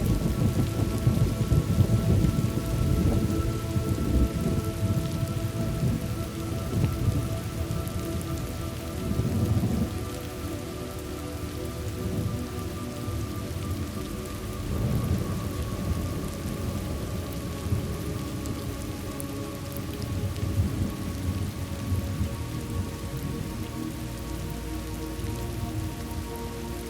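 Thunderstorm ambience: steady rain falling, with low rolling thunder rumbles that swell and fade, strongest in the first few seconds.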